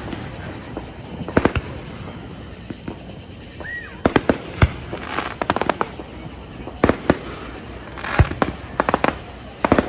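Fireworks going off: a run of sharp bangs with bursts of rapid crackling, and a short whistle that rises and falls a little over a third of the way in.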